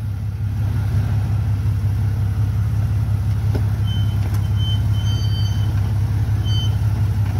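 Jeep Cherokee XJ engine running steadily at low revs as the Jeep crawls slowly over rocks. A thin high-pitched tone comes and goes several times in the second half.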